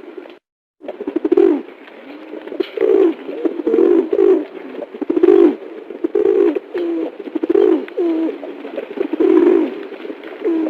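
A bird calling over and over in low, repeated calls, roughly one a second, with a brief silence about half a second in.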